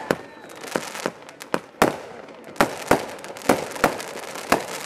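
Consumer aerial fireworks going off: an irregular string of about ten sharp bangs in five seconds as shells burst overhead.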